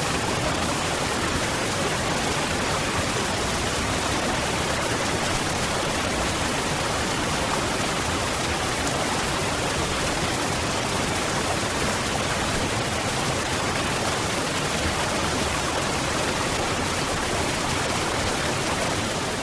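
Waterfall: falling water in a steady, even rush.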